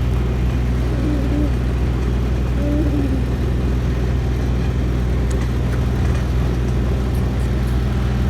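Tractor engine running steadily under way, a loud, even drone heard from on board the tractor.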